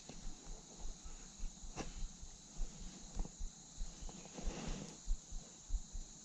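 Steady high-pitched insect chorus, with scattered low knocks and rustles of handling close to the microphone.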